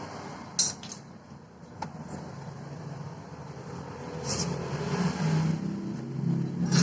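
A motor vehicle engine running with a low hum that gets louder from about four seconds in, with a few sharp clicks along the way.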